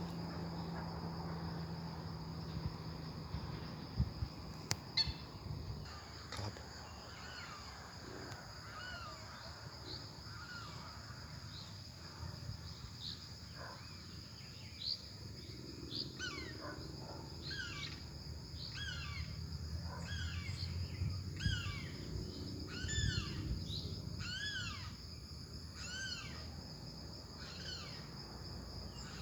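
Steady high insect drone of crickets or cicadas, with a bird calling over it in quick, repeated up-and-down chirps through the second half. A low hum and a few sharp knocks sound in the first few seconds.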